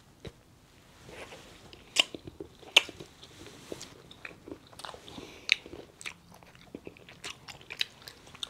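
Close-up chewing and biting of a liquor-filled chocolate, with sharp crunchy clicks scattered through; the loudest come about two and three seconds in.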